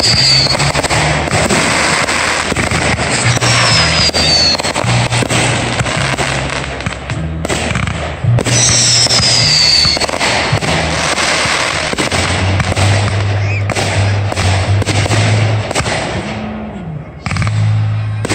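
Aerial fireworks going off in quick succession: launch thumps, bursts and dense crackling pops. A falling whistle sounds three times, at the start, about four seconds in and about nine seconds in. The firing slackens briefly near the end.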